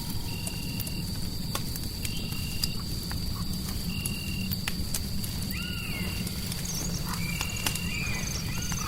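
Fireplace crackling, with scattered sharp pops over a steady low rumble. A short high note repeats about every second and a half, and a couple of warbling animal-like calls come in a little past halfway and again near the end.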